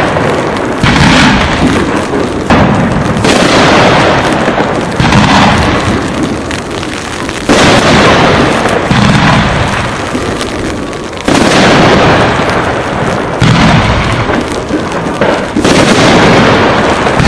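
Fireworks display: aerial shells bursting with loud booms, several a few seconds apart, each trailing off slowly into crackle and echo.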